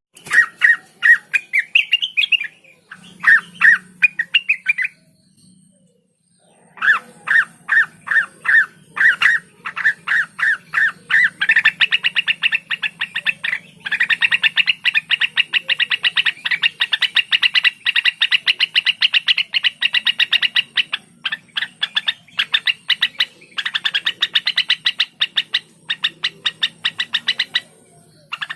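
Blue-winged leafbird (cucak wilis) singing: quick phrases of short chattering notes, a break about five seconds in, then long, fast runs of repeated notes.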